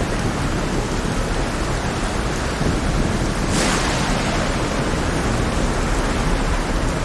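Heavy rain in a storm: a dense, steady rain hiss over a continuous low rumble of thunder, with a brief rushing surge of higher noise about halfway through.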